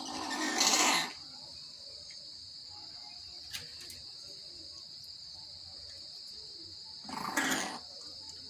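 A pet myna giving two harsh, rasping calls, each about a second long: one at the start and one near the end. A steady high-pitched insect drone like crickets runs underneath.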